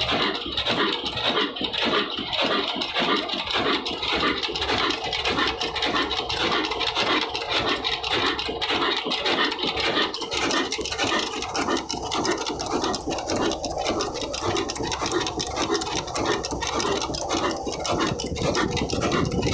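Old Ruston Hornsby diesel engine running steadily under load, driving a flour mill, with a fast, even, rhythmic beat.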